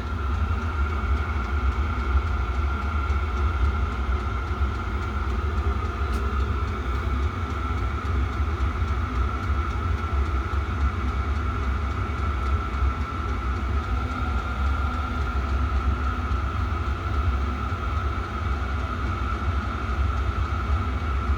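A 6 kW diesel air heater running steadily, with a low rumble and a constant high whine from its blower fan.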